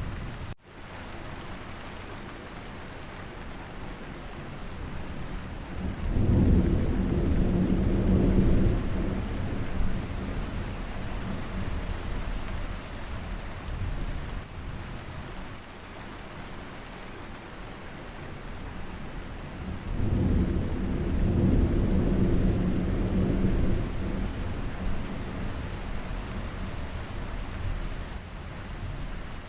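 Steady rain with two rolls of thunder, one about six seconds in and another about twenty seconds in, each rumbling for several seconds. A brief dropout just after the start.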